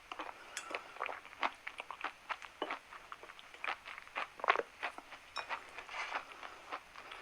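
Chalk being crunched: a dense run of irregular, crisp crackles and crunches, several a second.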